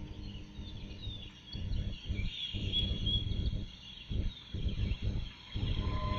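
Outdoor wind noise rumbling in irregular gusts, with faint bird chirps.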